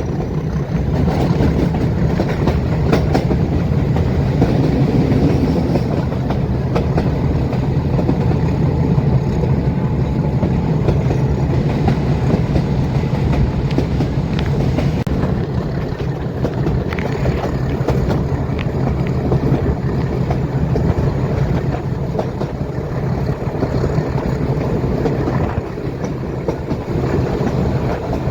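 Metre-gauge passenger train running along the track, heard from on board: a steady low rumble with the wheels clicking and clattering over the rail joints.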